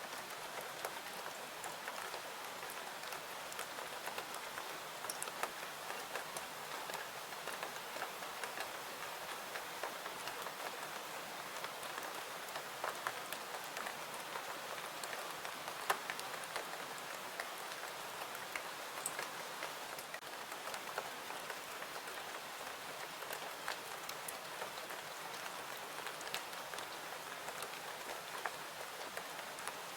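Steady rain: an even hiss sprinkled with many small, scattered drop ticks.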